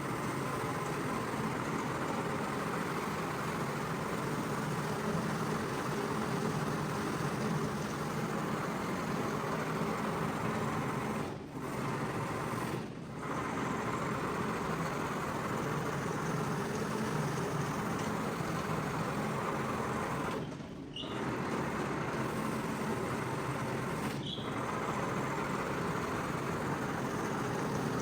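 Carpet-cleaning machine running steadily: a motor hum under a wash of noise, which dips briefly several times partway through.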